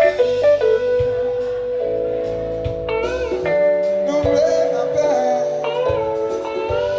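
Live band music: guitar and held chords, with a voice singing a few bending, sliding phrases in the middle.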